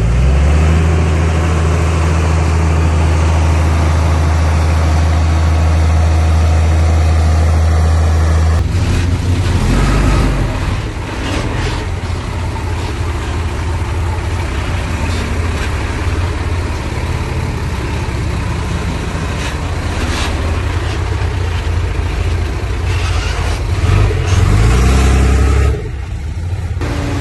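Heavy diesel earthmoving machine running: a loud, steady engine drone for the first third, then a rougher, changing engine note with scattered knocks and clanks.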